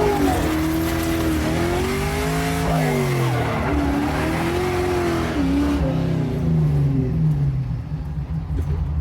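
LS V8 in a Fox-body Mustang revving hard while drifting, the revs repeatedly rising and falling, with tyre noise over the first few seconds. Near the end the revs fall away and the engine briefly quietens before picking up again.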